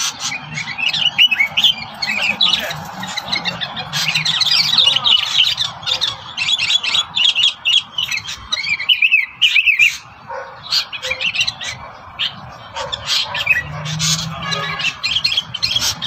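Songbirds calling in quick runs of short, high chirps and squawks, with a brief lull a little past halfway.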